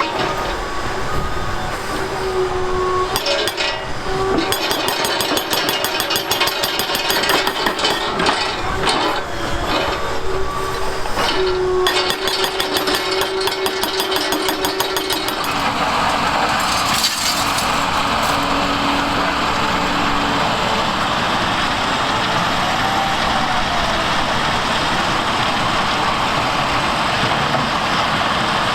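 Liebherr excavators working on concrete demolition. For about the first half there is fast, rapid hammering and rattling with a steady whine underneath. After that it changes to a steady engine and hydraulic run.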